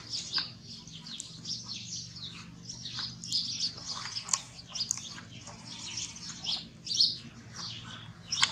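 Small birds chirping: many short, high chirps in quick succession, over a faint steady low hum.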